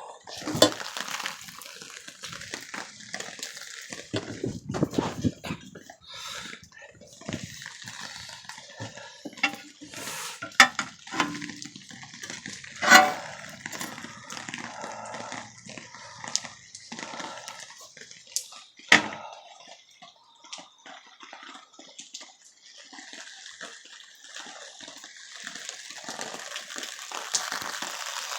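Heavy rain falling, with water dripping and splashing and a scattering of sharp knocks, the loudest about a second in, near 11 and 13 seconds, and near 19 seconds.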